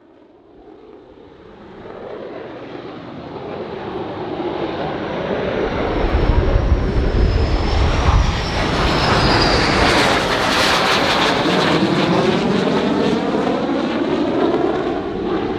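Jet aircraft flying past. Its roar swells from nothing to full loudness over several seconds, with a high engine whine that slowly falls in pitch and a deep rumble at the loudest point, then a sweeping, phasing whoosh as it goes by.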